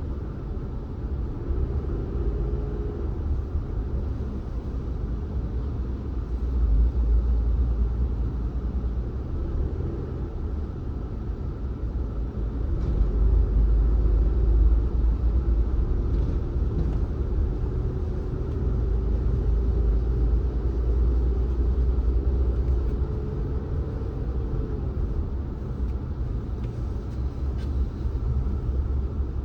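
Car driving along a road: a steady low rumble of road and engine noise, with a faint engine note that rises and falls as the car changes speed.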